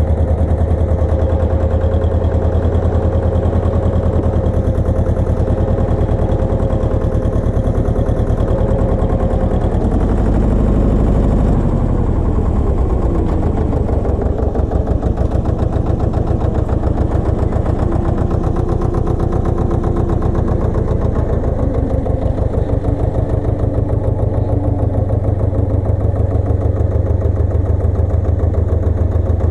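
Pasquali 980 EX two-wheel tractor's engine running steadily with a rapid, even beat. Its note shifts briefly about ten to twelve seconds in, then falls back and settles.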